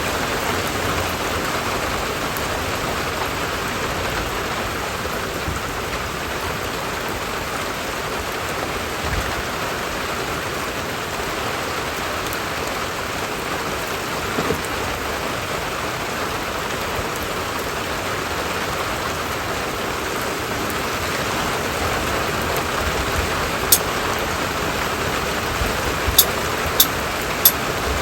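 Steady rain falling, an even hiss of drops on surfaces. A few short, sharp ticks stand out near the end.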